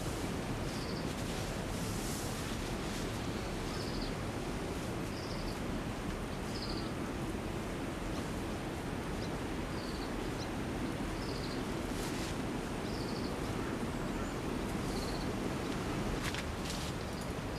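Steady rushing noise of water, with a short, high chirp from a small creature repeating about every one and a half seconds.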